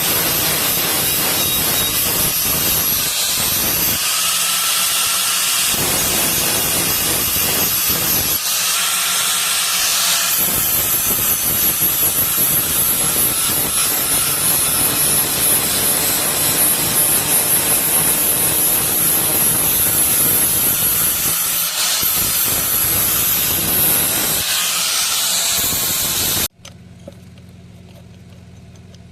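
Power grinder grinding metal: a loud, steady hiss with a high whine, cut off abruptly near the end, leaving a low hum.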